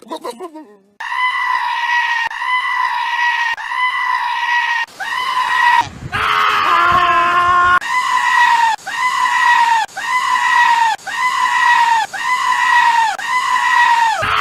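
A goat screaming over and over: a long run of short, high-pitched bleats, speeding up to about two a second in the second half. A lower, longer call breaks the run near the middle.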